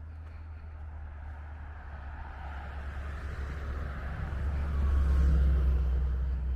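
A motor vehicle passing close by: a low engine rumble and road noise that swell to a peak about five seconds in, then start to fade.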